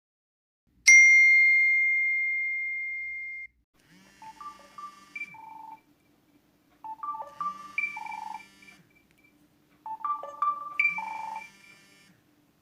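A single chime rings out and fades over about two and a half seconds. Then a short electronic melody of a few beeping notes plays three times, like a phone ringtone.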